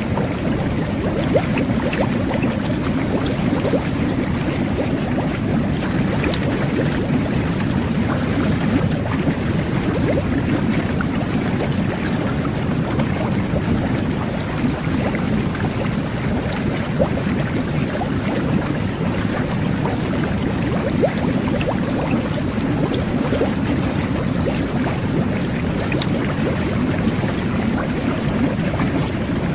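Jet bath (whirlpool tub) churning the bathwater: a steady, unbroken bubbling rush with a deep rumble and fine fizzing crackle on top.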